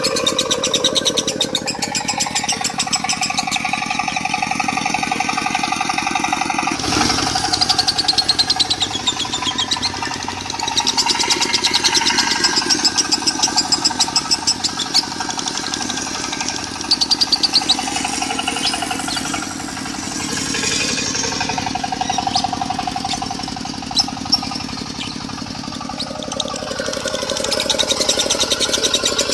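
Lovebird chattering in a long, unbroken "konslet" run of rapid twittering, mixed over a diesel engine running with a fast, steady chug. The chatter grows louder and busier about seven seconds in.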